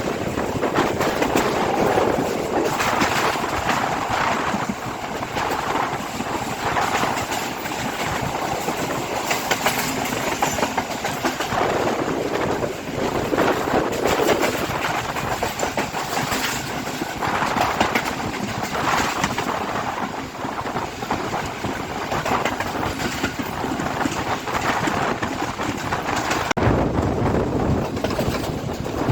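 Express train running at speed: steady rolling noise from the wheels and carriages, with a rapid clatter as the wheels cross rail joints. Near the end the sound cuts abruptly to a deeper, steadier rumble.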